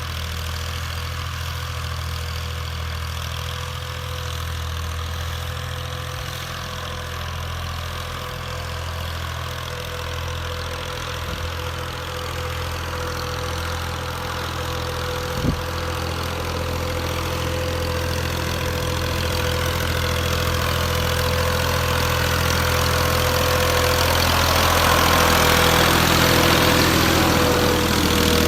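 Massey Ferguson 240 tractor's three-cylinder diesel engine running steadily, growing gradually louder over the last several seconds, with one sharp click about halfway through.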